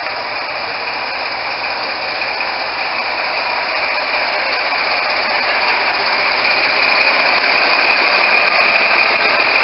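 Diesel locomotive engine running with a steady mechanical drone that slowly grows louder.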